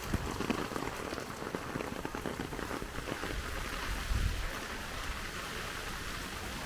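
Steady rain falling and pattering on surfaces, with many fine drop ticks, denser in the first few seconds, and a brief low rumble about four seconds in.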